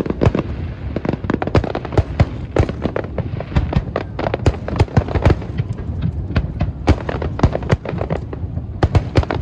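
Fireworks show: a dense, irregular barrage of shell bursts, several sharp bangs a second over a continuous low rumble.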